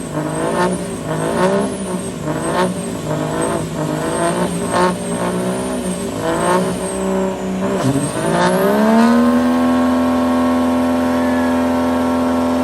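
Truck engine revved up and down repeatedly, then climbing about eight seconds in to a steady, held high rpm.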